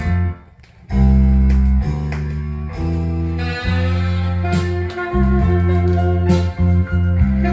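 Music played from a vinyl record through a 2A3 tube phono preamp: guitar over a deep bass line whose notes change about once a second, with a brief drop-out just after the start.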